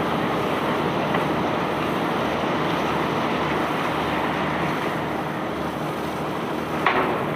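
Steady running noise of a self-unloading cargo barge's unloading machinery, with one sharp knock near the end.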